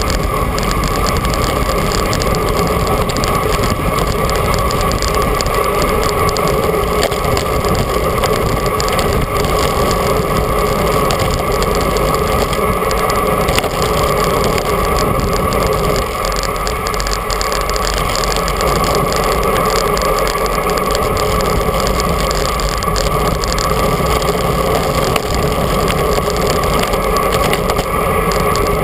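Steady wind and road noise on a camera carried on a moving bicycle, a loud unbroken rush.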